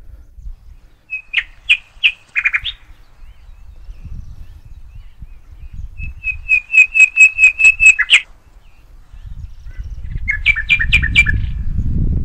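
A bird calling in three bursts of rapid, evenly repeated chirps; the middle burst is the longest and loudest, about ten notes. A low rumbling noise builds up over the last few seconds.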